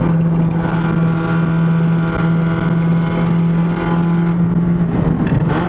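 Mazda Spec Miata race car's four-cylinder engine heard from inside the cockpit, holding a steady note. About five seconds in the note breaks up briefly, with a few sharp clicks.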